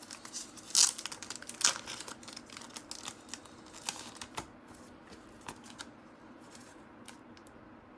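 Thin plastic card sleeve crinkling and rustling in short crackly bursts as a trading card is worked into it by hand, busiest in the first few seconds and thinning to a few light ticks later.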